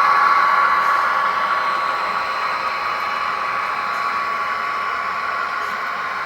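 S scale model train running along the track: a steady electric-motor whine over the hiss and rumble of the wheels on the rails, growing gradually fainter.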